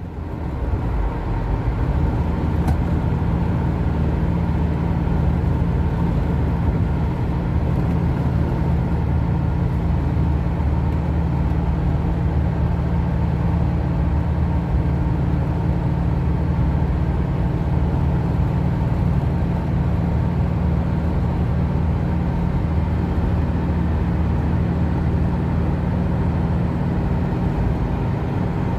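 A motor vehicle's engine running steadily with a low hum over road noise.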